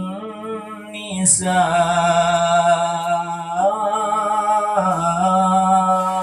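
Devotional Arabic sholawat singing: a voice draws out one syllable of the verse as a long, ornamented held note. About a second in it breaks briefly, then swells into a fuller, louder note.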